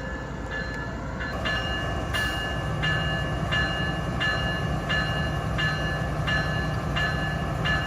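Railroad grade-crossing warning bell dinging steadily, about three strokes every two seconds, louder from a little over a second in. Underneath is the steady low rumble of diesel locomotives running, with a low hum rising from about a third of the way through.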